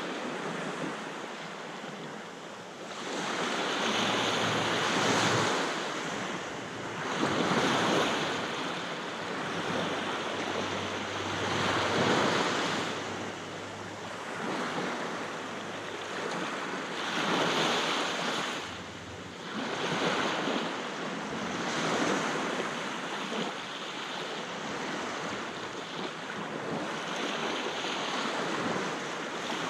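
Sea waves breaking on a beach and washing back, the surf swelling and easing every four to five seconds, with some wind noise on the microphone.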